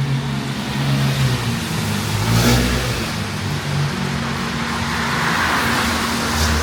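A car driving past close by, its engine running under a steady hiss of tyre noise, with a brief louder swish about two and a half seconds in.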